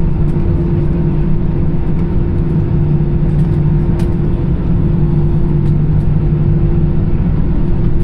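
Airbus A320's CFM56 engines at taxi idle, heard inside the cabin: a steady rumble with a constant low hum and a higher steady tone above it. A faint click about halfway through.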